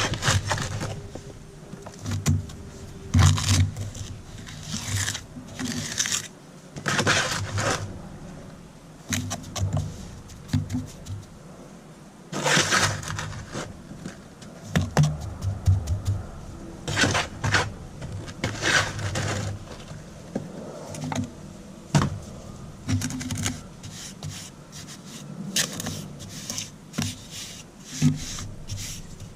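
A hand tool scraping and rubbing on concrete in short, irregular strokes, with low knocks between them.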